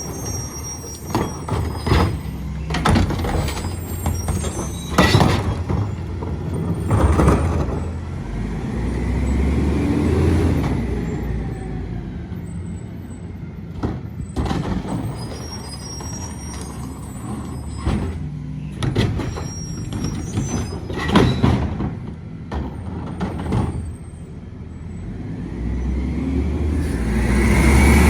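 Mack MRU garbage truck with a McNeilus rear-loader body at work: the diesel engine runs throughout and revs up twice, around the middle and again near the end. Sharp bangs and clatter come in between.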